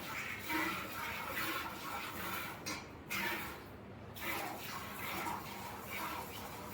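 Buffalo being milked by hand: jets of milk squirting into a pail in a steady rhythm of about two strokes a second, with a short pause about three seconds in.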